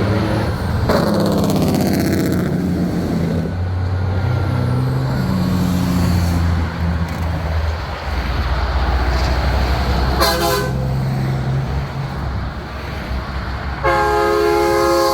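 Big rigs passing with their diesel engines droning low and air horns blown: a horn chord falls in pitch as a truck goes by about a second in, a short blast comes around ten seconds in, and a loud multi-note horn sounds near the end.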